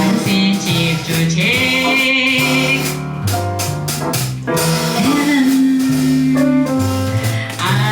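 Live jazz combo playing: a bass line stepping from note to note under a held, vibrato-laden lead melody, with cymbals.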